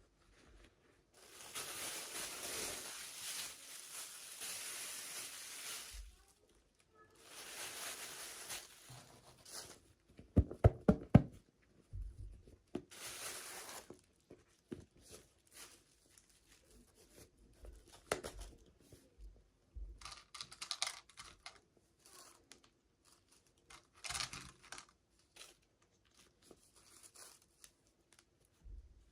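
Packaging being torn open in two long rips, then crinkled and handled, with a quick cluster of sharp clicks and taps about ten seconds in.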